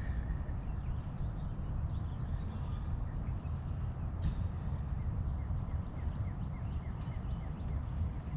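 Low rumble of wind buffeting the microphone, with small birds chirping: a few falling chirps about two to three seconds in, and a run of short repeated notes, about four a second, in the second half.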